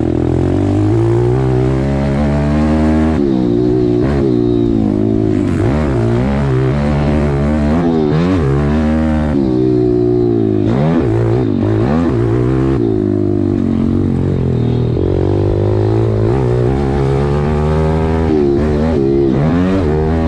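Small single-cylinder pit bike engine being ridden hard, its pitch rising and falling again and again as the throttle is opened and closed through the gears.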